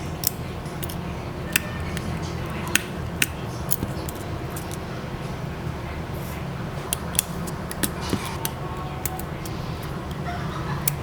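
Small metal tools clicking and tapping against a phone's parts in sharp, irregular ticks, over a steady low hum.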